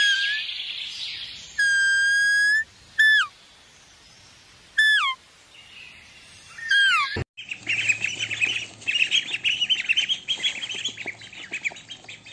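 Birds calling: a few clear whistled calls, one held steady and the others dropping in pitch. After an abrupt cut, a flock of birds chirps busily and without pause.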